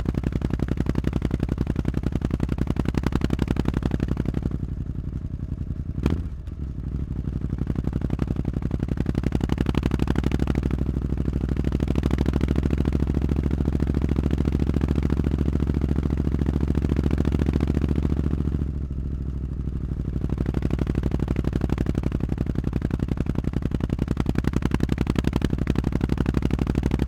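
Triumph Street Scrambler's parallel-twin idling through a Zard muffler on a straight pipe with no catalyser: a steady, pulsing exhaust. It dips briefly twice, and there is one sharp crack about six seconds in.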